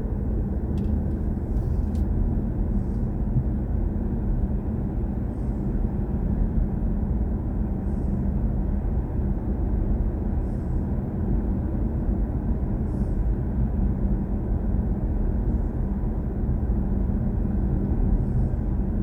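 Steady low road and tyre rumble inside the cabin of a BMW i4 M50 electric car driving along at a constant pace, with no engine note.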